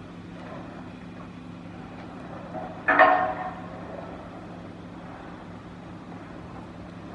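Steady low engine drone of a vessel, with a short, loud pitched blast about three seconds in that fades over about a second.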